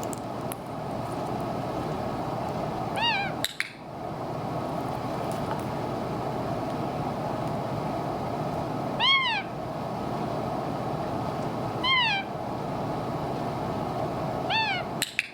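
Indian ringneck parakeet giving a soft, short 'meh' call four times, each a quick rise and fall in pitch: the quiet call being trained to replace his harsh alarm call. A sharp click follows the first and last calls, over a steady background hum.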